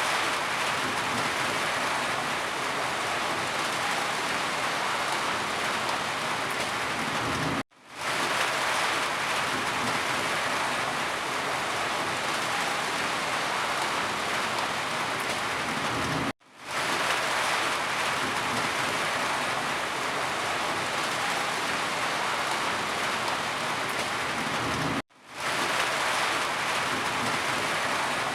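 Steady rain falling, an even hiss of drops with no distinct thunder. The sound cuts out briefly three times, about every nine seconds, each time fading quickly back in.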